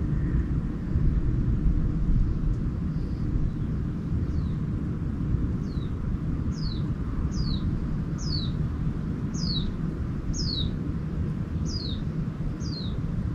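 A bird repeating short, high, downward-sliding calls, about one every half-second or so, starting about four seconds in. Under it runs a steady low rumble.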